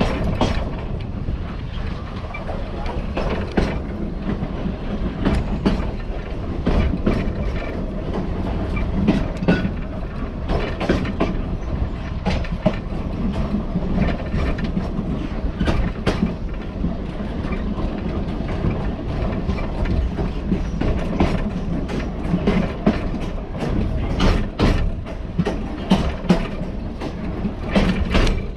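A train heard from aboard as it runs along the rails: a steady rumble of wheels on track, with irregular sharp clicks and knocks from the wheels and running gear.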